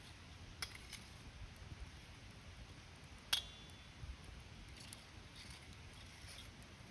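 Wood bonfire burning with soft crackling and scattered sharp pops, one pop about a third of the way in clearly the loudest, over a faint low rumble of the flames.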